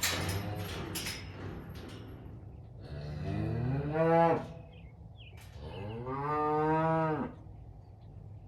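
Cattle mooing: two long moos, the first rising in pitch and loudest about three seconds in, the second steadier a couple of seconds later.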